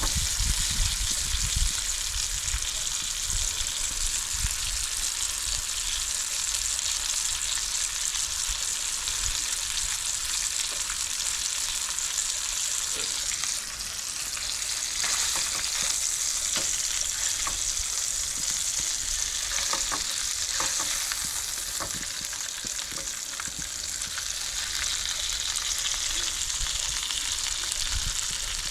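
Hot dogs sizzling steadily in a hot pan, a continuous frying hiss that dips briefly about halfway through, with a few faint clicks in the middle.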